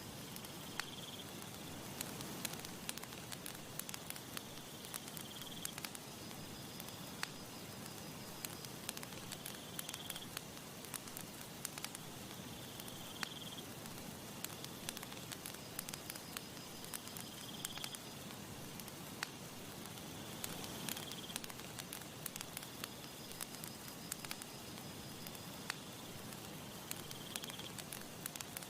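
Campfire crackling steadily: many small pops and snaps over a soft hiss. A faint high chirp repeats every few seconds, with a longer high trill that comes and goes.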